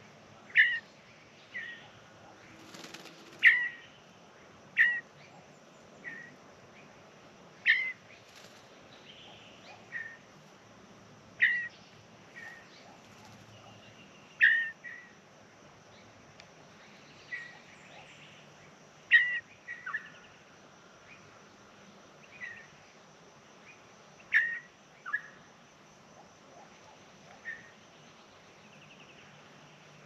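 A bird giving short, sharp calls every one to three seconds, each a quick downward slide in pitch.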